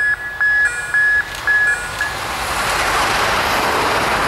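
Electronic level-crossing warning bell beeping about twice a second, stopping about two seconds in. Then a regional railcar passes close by at speed, its wheel and air noise rising into a loud rush.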